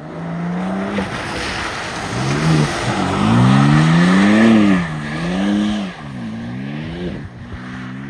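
BMW M3 (G80) twin-turbo straight-six revving up and down as the car drifts sideways past on a snowy road, loudest as it slides by. A hiss of spinning tyres on slush runs under the engine.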